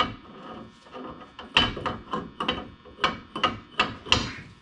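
Metal tools knocking and clicking against the differential's threaded bearing adjuster as it is turned a quarter turn to reset gear backlash: about a dozen sharp, irregular knocks.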